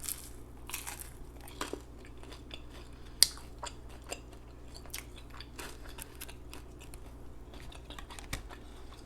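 A person chewing and smacking on fast food with the mouth open, with scattered wet clicks and crunches. The sharpest click comes about three seconds in.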